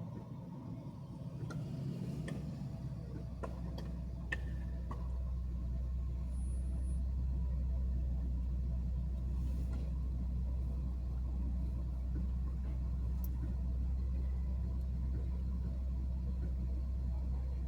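Car driving: a low road and engine rumble that builds about three seconds in, then holds steady. A few faint clicks sound in the first few seconds.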